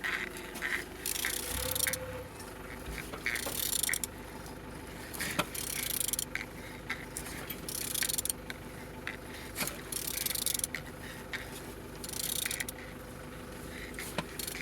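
Opel Y20DTH 2.0 diesel engine being turned over by hand with a wrench, a metallic rasping burst about every two seconds with scattered clicks. It turns freely, the engine not seized.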